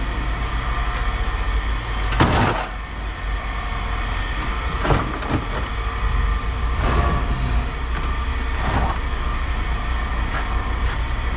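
A few clanks of scrap metal being handled and dropped, the loudest about two seconds in, over a steady low machine hum.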